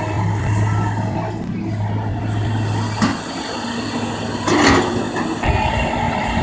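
Kobelco excavator's diesel engine running steadily, with a sharp clack about three seconds in and a short, hissing burst of noise a little later. Near the end the engine settles into a heavier, rougher low rumble.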